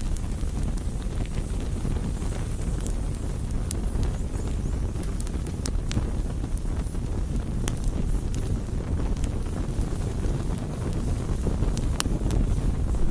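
Campfire burning: a steady low rumble with scattered sharp crackles and pops from the wood, a few seconds apart.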